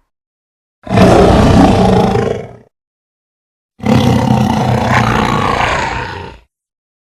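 Two creature roar sound effects separated by dead silence: a shorter roar starting about a second in, then a longer one from about four seconds in that tails off.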